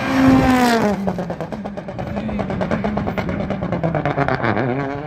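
Rally car engine at high revs that drop sharply about a second in as the driver lifts off. The engine then pulls again with a rapid pulsing note, dipping once more and picking up near the end.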